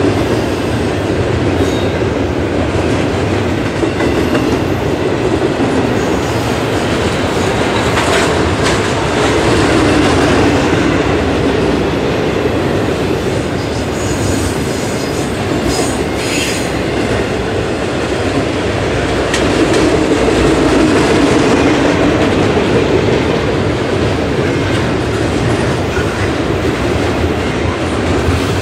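Double-stack intermodal train's well cars rolling past: steel wheels running on rail, steady and loud, with a slight swell in level twice.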